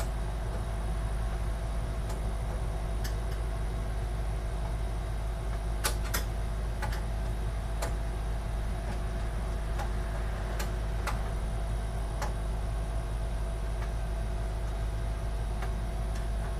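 Scattered small clicks and taps as an expansion card and its screw are worked into a computer case, over a steady low hum.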